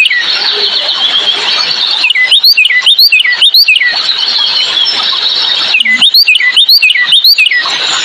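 A songbird calling in two runs of five or six quick sweeping notes, a few seconds apart, with softer twittering in between.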